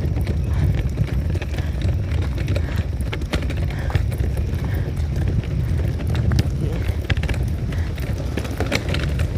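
Footsteps of a person walking on pavement, a steady run of short scuffing steps, over a constant low rumble on the microphone.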